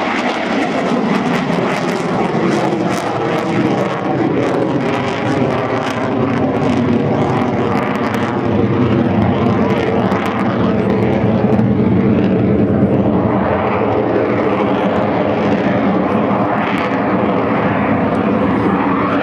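Twin General Electric turbofans of an EF-18 Hornet fighter jet at display power: a loud, continuous jet roar with a steady droning tone underneath, swelling a little toward the middle.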